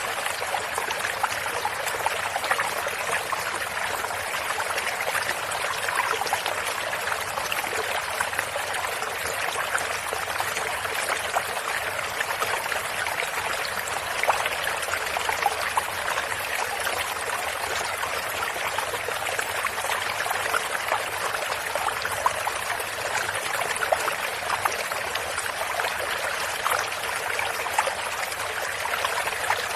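Running water of a small stream, a steady rushing flow flecked with many small splashes.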